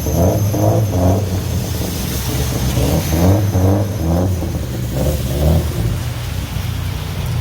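A car engine idling and being revved in quick repeated blips, about three short rising revs a second, in two bursts.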